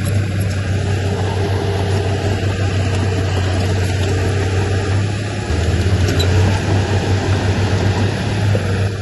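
Heavy diesel engine of earthmoving machinery running with a low, steady drone. It gets louder and throbs from a little past halfway.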